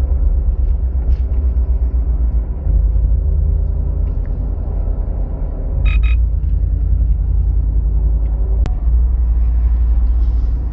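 Ford pickup truck's engine and drivetrain rumbling inside the cab while driving, the rumble stepping up in loudness three times. The transmission is acting up, which the owner hopes is a tuning problem. A brief higher sound about six seconds in and a single sharp click near the end.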